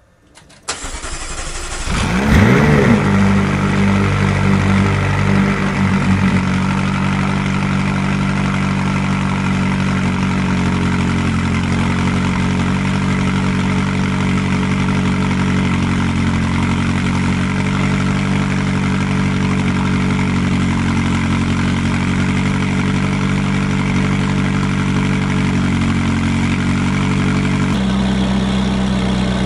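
McLaren 570S twin-turbo V8 starting: a brief crank, a rev flare about two seconds in, then a steady idle whose note shifts near the end.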